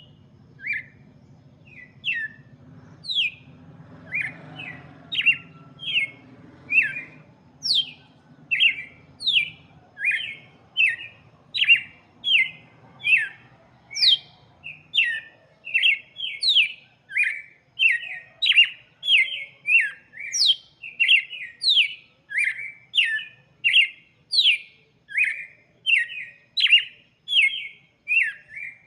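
Red-cowled cardinal (galo-de-campina) singing: a long run of short, sharp notes, a few spaced out at first, then a steady string of nearly two a second.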